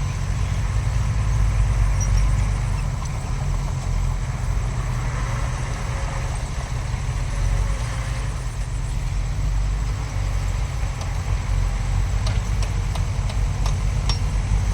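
Heavy diesel earthmoving machinery running, a steady low rumble with an uneven pulse, and a few sharp clicks near the end.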